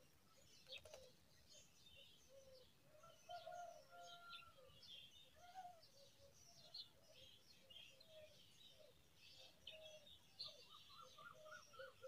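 Faint, busy chirping of small birds: many quick high calls overlapping, with lower wavering calls underneath and a run of rapid repeated notes near the end.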